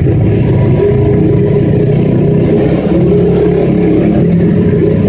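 Pit bike's small single-cylinder engine running hard, its revs rising and falling a little, the exhaust echoing in a tunnel.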